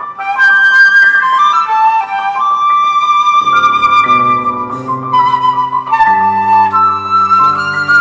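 Flute playing a melody of held notes with piano accompaniment. Low piano chords come in about three and a half seconds in.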